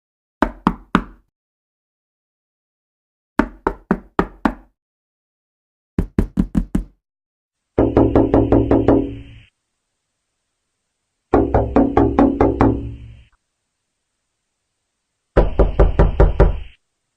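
Knocking sound effect: groups of sharp knocks separated by silences. It starts with short groups of three to five knocks, then about halfway in changes to longer, faster runs of eight to ten heavier knocks.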